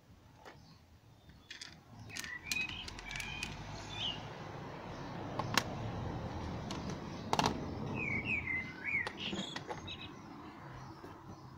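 Small birds chirping in short rising-and-falling calls, with a few sharp clicks, the loudest about five and a half and seven and a half seconds in, as plastic push-in tabs are pressed into the plastic slam-panel cover over a car's radiator.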